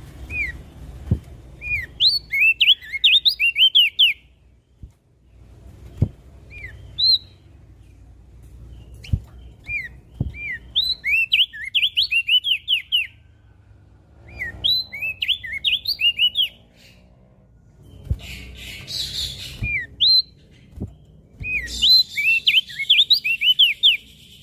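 Opior jambul (crested white-eye) singing: bouts of rapid, high chirping notes that sweep up and down, each phrase a second or a few seconds long and repeated every few seconds, with a few soft knocks and a low rumble beneath.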